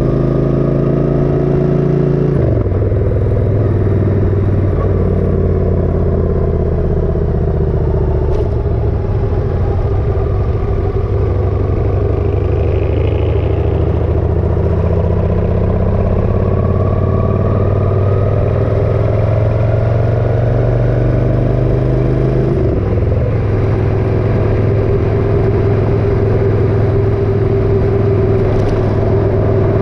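Motorcycle engine running steadily under way, its note dropping sharply a couple of seconds in and again about three-quarters of the way through, as at a gear change.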